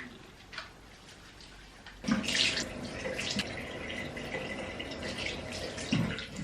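A tap turned on about two seconds in, water running into a sink for about four seconds, then turned off.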